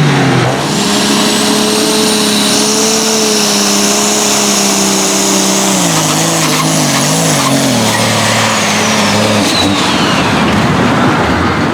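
Competition pulling tractor's engine at full throttle pulling the sled, a loud steady engine note with a high whine above it. About six seconds in the engine pitch drops and wavers, and the whine glides down near the end.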